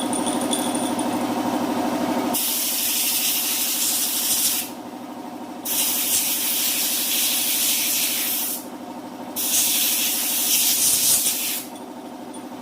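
A motor running steadily, then three long bursts of hissing spray, each two to three seconds long, with short pauses between them.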